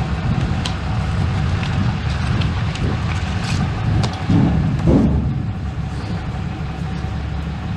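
A steady low outdoor rumble, with a few light clicks and knocks as records are flipped through in a box.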